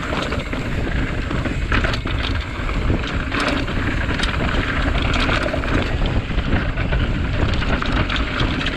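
Santa Cruz Tallboy mountain bike ridden down a rough trail: wind buffeting the microphone over a steady rumble of tyres on dirt, with frequent short clicks and rattles from the bike.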